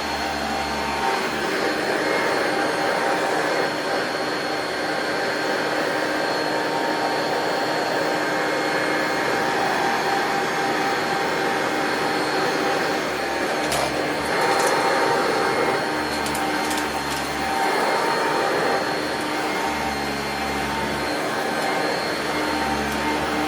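Singer System 90 vacuum cleaner running steadily while vacuuming, its motor whine holding level as the sound swells and dips slightly with the strokes. A few brief clicks come about two-thirds of the way through.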